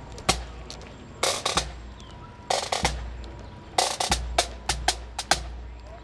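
Marching drum line playing a cadence: sharp snare hits and short rolls in a repeating pattern, a cluster about every second and a quarter, with no melody over them.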